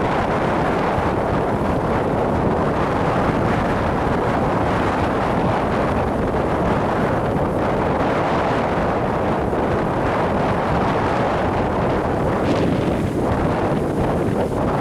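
Strong wind buffeting a hand-held camera's microphone, a steady loud rushing noise, with waves breaking on the shore beneath it.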